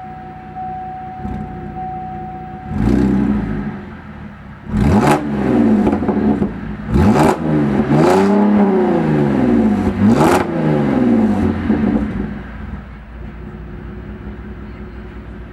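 2006 Cadillac CTS engine with the muffler deleted, straight-piped exhaust idling, then blipped through a series of quick revs, each rising and falling in pitch, before settling back to idle near the end.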